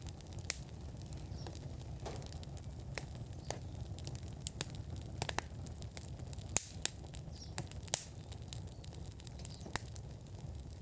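Wood fire burning in an outdoor fire pit: irregular sharp crackles and pops over a low steady rumble, with two louder pops about six and a half and eight seconds in.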